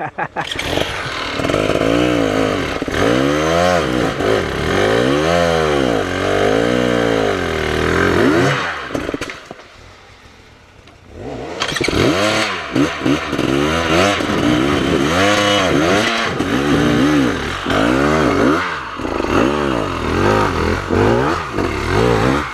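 Dirt bike engine revving up and down over and over, roughly once a second, as the bike climbs a steep hill; the sound drops away for about two seconds near the middle, then the revving comes back.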